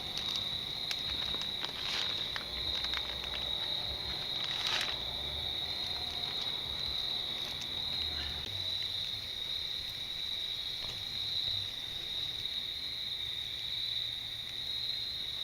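Steady, high-pitched chirring of insects, one unbroken tone, with a few clicks and knocks in the first five seconds.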